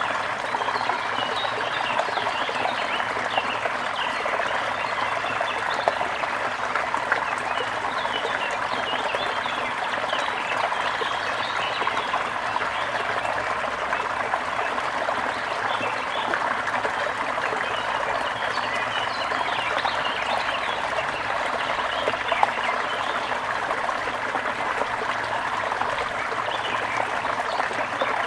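Trickling stream water running steadily, with small birds chirping continuously over it.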